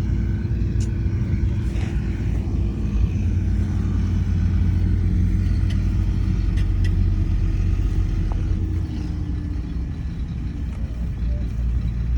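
Heavy diesel engine of earthmoving equipment running steadily under load, with a faint whine over the engine note; it eases off slightly about nine seconds in.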